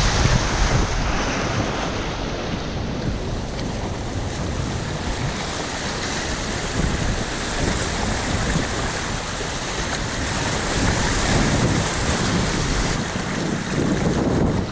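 River water rushing steadily, with wind noise on the microphone.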